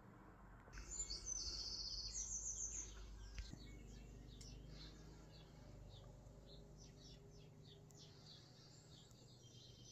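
Small birds chirping and singing, with a rapid high trill about a second in and short high chirps throughout. A faint low rumble under it stops abruptly about three and a half seconds in.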